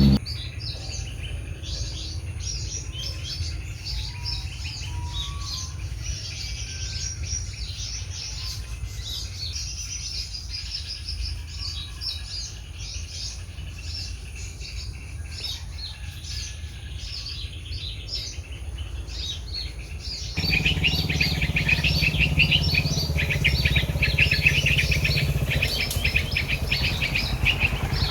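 Small songbirds chirping and calling rapidly, many short notes overlapping, over a low rumble. About 20 seconds in the sound jumps louder, with a denser run of chirps and a stronger low hum.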